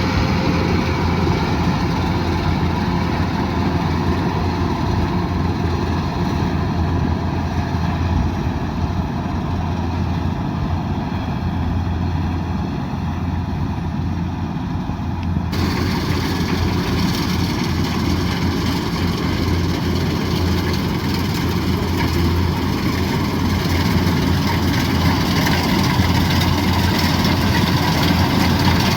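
Kubota DC108X combine harvester's diesel engine running steadily with a constant low hum. About halfway through the sound changes abruptly, with more high hiss.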